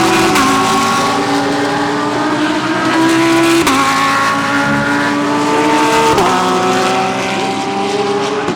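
GT3 race cars accelerating past, engines climbing slowly in pitch and dropping sharply on upshifts, twice in the middle of the stretch, with several engines sounding at once.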